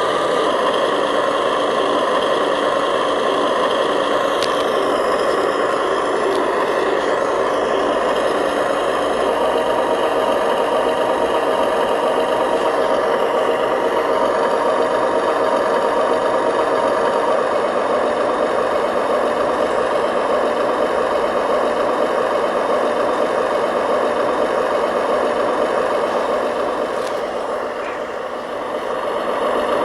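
Remote-controlled model construction machinery (a bulldozer and dump trucks) running steadily with an engine-like drone. Several held tones in it shift now and then, and the sound dips briefly near the end.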